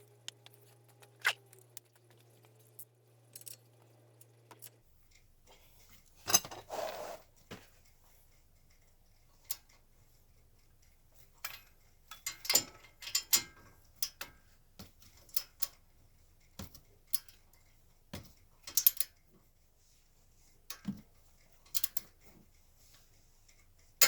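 Metal tools and parts being handled: scattered clinks, taps and knocks at irregular intervals. A faint steady hum stops about five seconds in.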